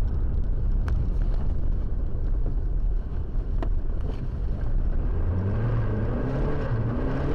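A car engine and road rumble. From about five seconds in, the engine note climbs in pitch several times in steps, as when accelerating hard through the gears.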